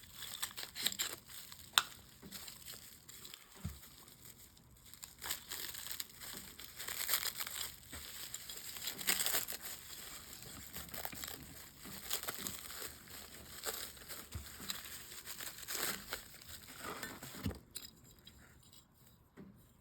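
Packing material being crinkled and pulled off a stone slab, a run of crackling with small clicks and knocks that eases off near the end.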